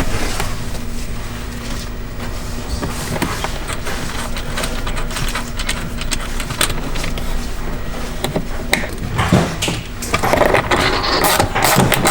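Hand tools and metal parts clinking and clicking while battery cables are fastened to an isolator, growing denser and louder near the end, over a steady low hum.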